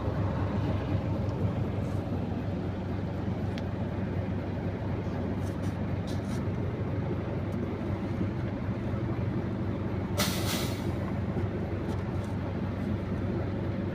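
Six-cylinder diesel engine of an Isuzu Forward truck idling steadily, with one short hiss of compressed air from the air brake system about ten seconds in.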